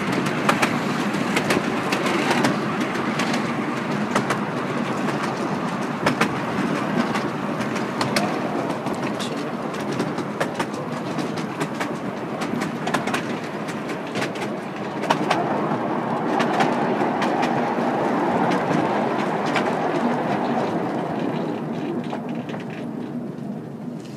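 10¼-inch gauge miniature railway train running along its track: a steady rumble with irregular clicks of the wheels over the rail joints, dying away over the last few seconds.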